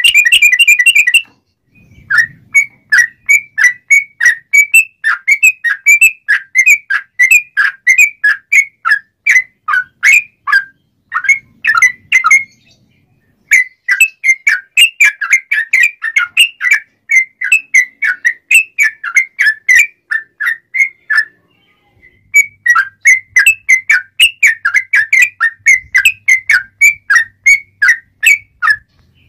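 Yellow-vented bulbul (trucuk) singing: sharp, clear, whistled notes repeated about three a second in long runs, opening with a fast rattling trill and broken by short pauses about halfway and two-thirds through.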